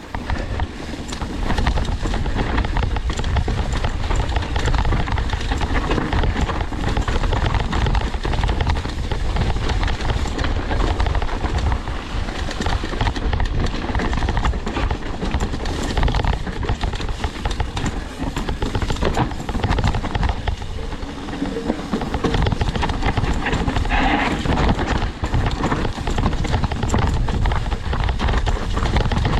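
Downhill mountain bike riding a rough, rocky trail: a steady rush of wind over the microphone with the bike clattering and knocking over rocks and roots, easing briefly about three quarters of the way through.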